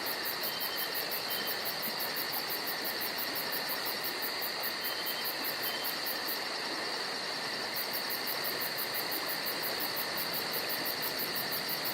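Insect chorus: a very high chirp pulsing fast and evenly, about five a second, over a steady buzzing trill. The pulsing stops for about a second just past the middle and then resumes.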